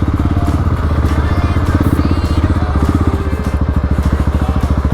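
Motorcycle engine running steadily at low revs, with an even, rapid pulsing beat.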